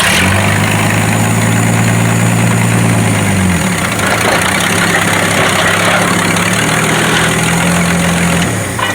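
Old Ford delivery van's engine running, loud and steady, its pitch dropping about three and a half seconds in and again near the end.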